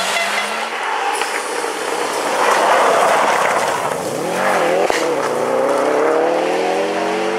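Rally car engine running hard at high revs, with a loud rushing noise through the middle. About four and a half seconds in the note drops and wavers, then climbs steadily in pitch as the car accelerates.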